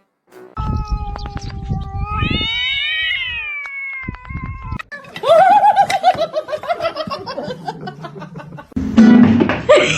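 A cat yowling: one long drawn-out call that rises and then falls in pitch, followed by a second, louder call with a wavering pitch. A loud burst of noise comes in near the end.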